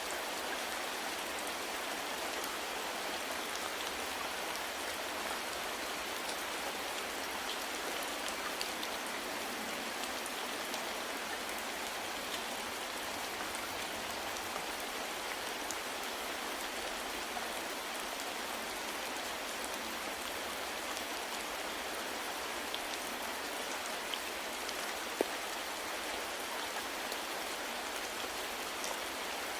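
Steady soft rain falling on a surface: an even hiss with scattered faint drop taps, and one sharper tap near the end.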